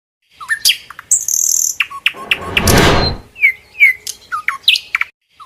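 Birds chirping and whistling in a string of short, quick calls, some sliding down in pitch. A loud rushing noise cuts in about two seconds in and lasts about a second.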